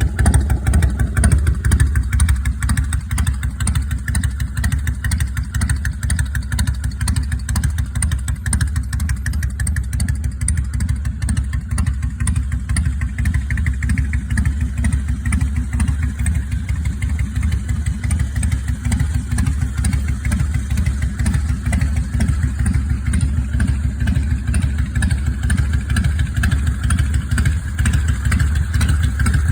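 2002 Harley-Davidson FLSTC's V-twin, bored to 95 cubic inches with 510G cams, a Mikuni carburettor and Vance & Hines exhaust, running steadily at low speed. It eases down from slightly higher revs over the first couple of seconds, then settles.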